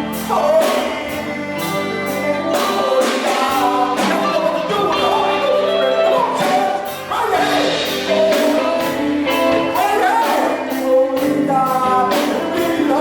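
Gospel music: singing over sustained instrumental chords with a steady beat.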